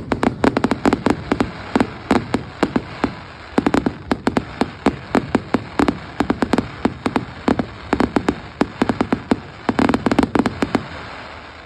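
Fireworks display: a rapid barrage of sharp bangs, several a second, that stops abruptly near the end.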